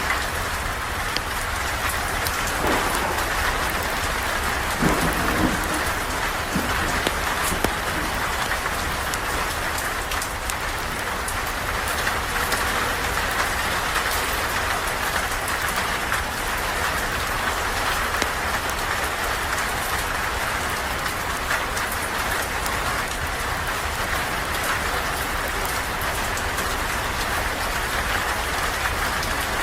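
Steady rain falling, heard from under a porch roof, with scattered sharp ticks of individual drops throughout.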